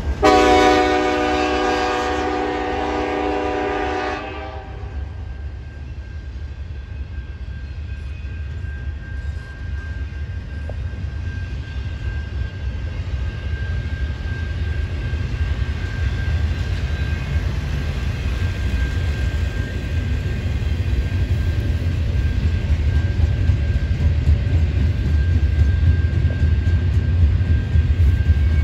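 CN freight locomotive's air horn sounds one long chord for about four seconds, then cuts off. The double-stack intermodal freight train then runs past with a steady low rumble and a faint steady high tone, growing louder toward the end.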